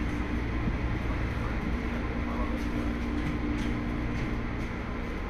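Electric commuter train running along the track, heard from inside the front car: a steady low rumble with a motor hum that fades briefly and returns about two seconds in, and a few faint clicks from the wheels on the rails.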